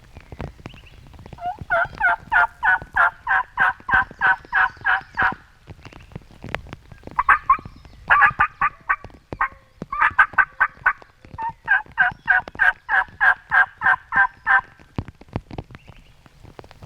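Turkey yelping in several long runs of evenly spaced notes, about three or four a second, with short pauses between the runs.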